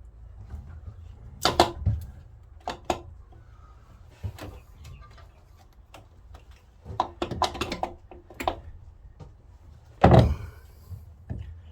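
Irregular metallic knocks and clunks as the old starter motor is worked free of the Yanmar 3QM30H marine diesel and lifted out. A heavier thud about ten seconds in stands out, with a low rumble underneath.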